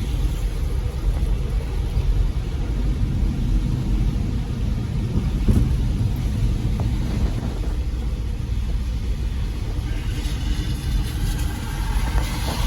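A car driving, heard from inside the cabin: a steady low rumble of engine and road noise. A hiss swells briefly near the end.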